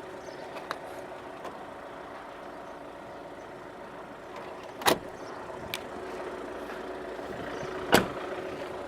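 Vauxhall Zafira's 1.9 CDTi diesel engine idling steadily, with two sharp knocks about five and eight seconds in and a few faint clicks.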